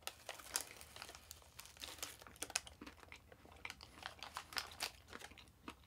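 Faint, irregular clicks and crackles of someone biting into and chewing a soft, sticky glazed doughnut.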